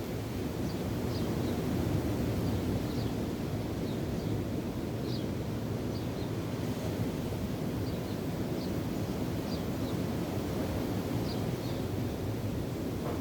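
Wind on the microphone and waves making a steady low rush, with small birds giving short high chirps every second or so.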